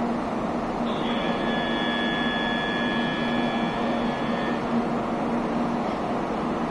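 Steady hum and hiss of a stationary N700A Shinkansen train at the platform. About a second in, a steady high electronic warning tone sounds for about three and a half seconds, then cuts off: the door-closing warning.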